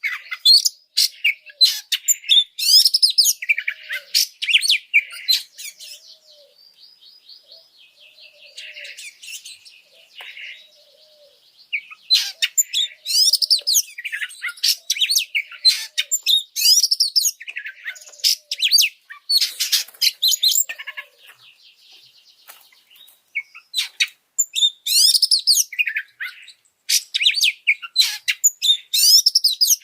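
Oriental magpie-robin (kacer) singing in an agitated, high-energy way: loud, varied phrases of whistles and harsh notes, broken by two quieter stretches of fast, buzzy trilling, one about a quarter of the way in and one after the middle.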